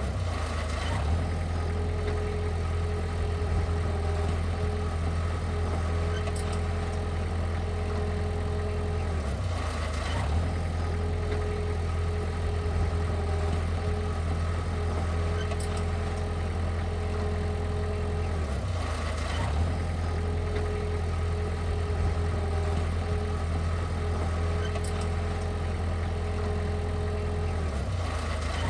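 Heavy diesel engine of earth-moving equipment running steadily at a low, even idle-like drone, with a pattern that repeats about every nine seconds.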